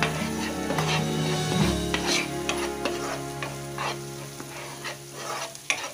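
Ginger-garlic paste with turmeric and red chilli powder frying in oil and ghee in a nonstick pan: a steady sizzle, with a spatula scraping across the pan in repeated stirring strokes.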